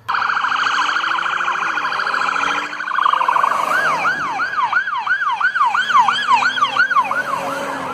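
Toy police car's electronic siren sounding: a fast warble for the first couple of seconds, then changing to a quick repeating wail of about three rising-and-falling sweeps a second.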